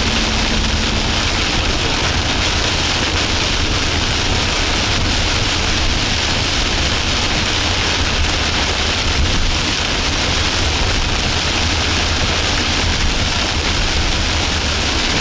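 Steady hiss and low rumble of a car driving, heard from inside the cabin.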